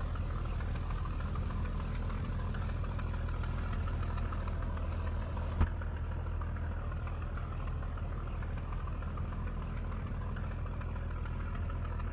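Scania G124 truck's 12-litre six-cylinder diesel engine running steadily at an even speed, with one short sharp click about halfway through.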